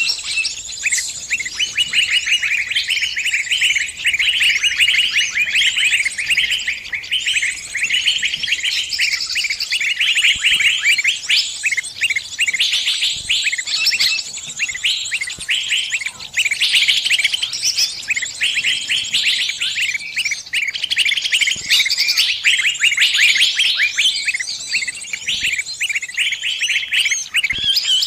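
A bird's distress calls, the cries of a trapped bird calling to others for help: dense, rapid, high-pitched chirping that goes on without a break.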